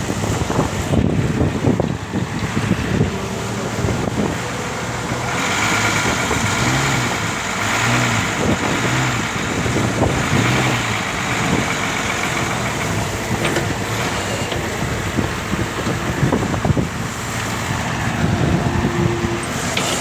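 Leyland truck engine running steadily, with road noise; its pitch wavers up and down for a few seconds in the middle.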